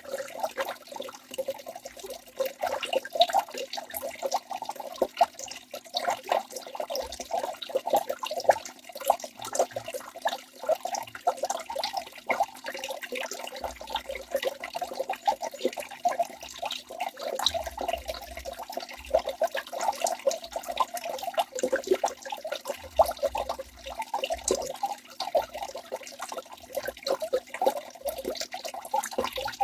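Waterfall splashing steadily, a dense run of small quick splashes of falling water with no pauses.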